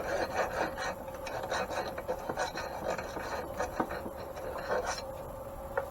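Hand file being stroked over a burred, mushroomed end of a shaft to dress it smooth, about two to three strokes a second, stopping about five seconds in.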